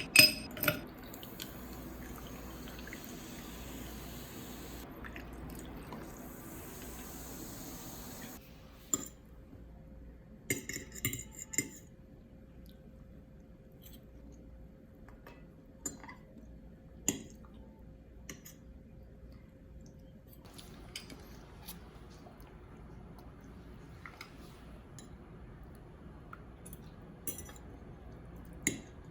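Water running steadily for about eight seconds, then stops; scattered light clinks of dishes, glassware and cutlery follow.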